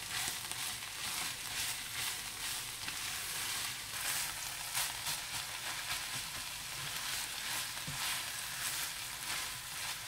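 Beef mince with onions and chilies sizzling in a pot while a spatula stirs it through, giving repeated scraping, swishing strokes over a steady hiss.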